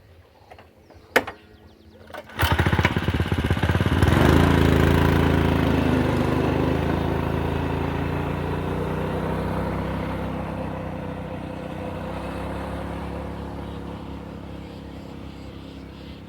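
A sharp click, then the small single-cylinder Honda GX200-clone engine of a two-wheel-drive motorcycle, its governor removed, starts abruptly about two seconds in and revs up, then keeps running while slowly getting quieter.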